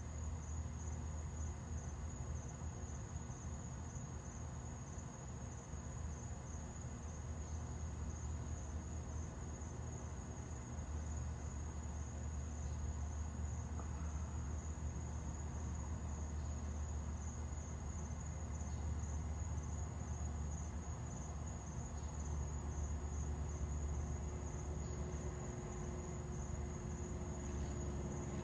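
Crickets chirping in a steady, fast-pulsing high trill, over a steady low rumble. A low hum comes in near the end.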